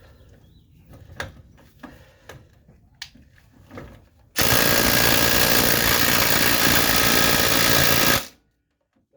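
A few light clicks and knocks, then an impact wrench hammering steadily for about four seconds on a stuck front-suspension fastener, cutting off abruptly.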